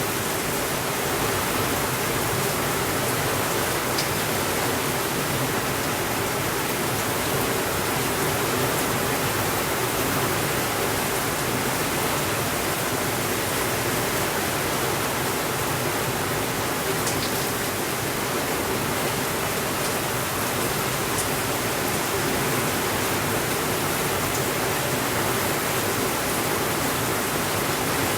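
Steady rainfall, an even hiss with no rises or breaks, with a couple of faint brief ticks around 4 and 17 seconds in.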